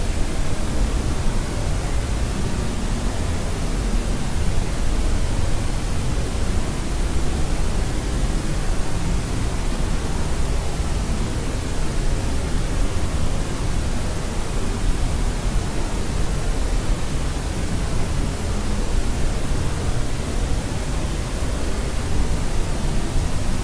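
Steady white-noise sleep sound: an even, unchanging hiss with more weight in the low end than the highs.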